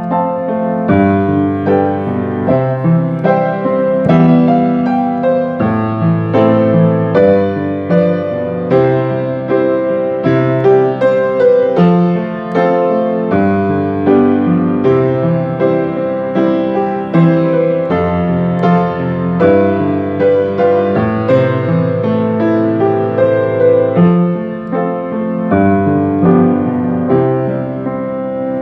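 Slow, gentle instrumental piano music with sustained chords and a melody, played as background music for prayer.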